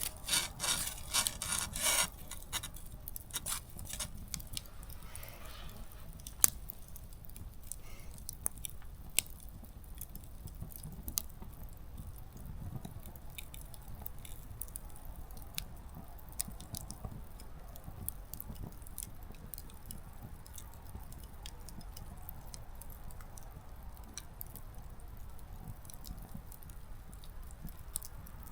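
Small wood campfire crackling: a quick run of crackles in the first two seconds, then scattered single sharp pops from the burning wood over a low, steady rush of the flames.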